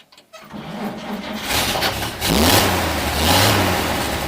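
1942 Chevrolet 1½-ton truck's straight-six engine turning over, catching about a second and a half in, then revving up and running, heard from inside the cab.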